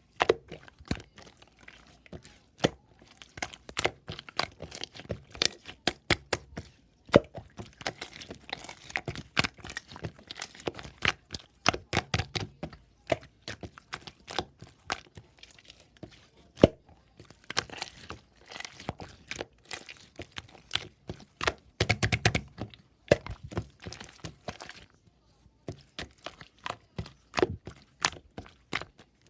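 Grass leaves being torn and crumpled: dense, irregular crackling and snapping.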